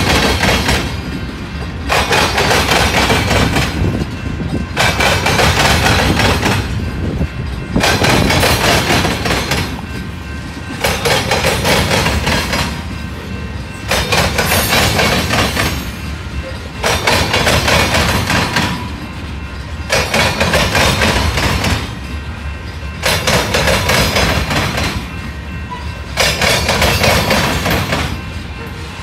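Freight train of tank cars and covered hoppers rolling past, steel wheels clattering and pounding over the rails. The loudness swells and drops about every two to three seconds as each car's trucks go by.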